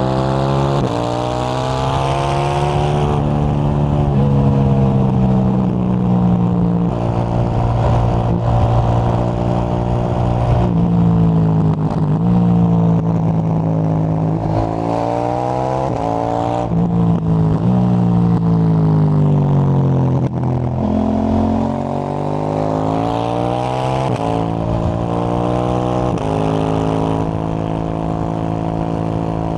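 KTM 890 Duke GP's parallel-twin engine through a Dominator HP8 slip-on exhaust with the dB-killer fitted, under way: the revs climb and drop back again and again through gear changes, with one long fall in revs a little past the middle.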